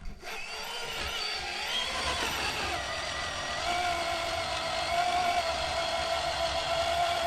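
RC rock crawler's electric motor and geared drivetrain whining under load as it climbs a 60-degree incline. The pitch wavers at first and then holds steady from about three and a half seconds in.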